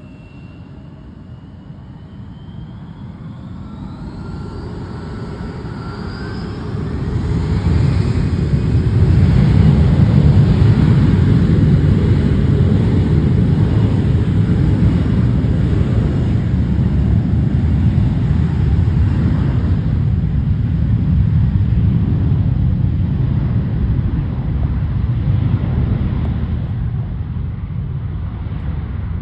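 Embraer 175 regional jet's twin GE CF34-8E turbofan engines at takeoff. A rising whine over the first six seconds gives way to a loud, steady jet rumble that peaks about ten seconds in, then slowly fades.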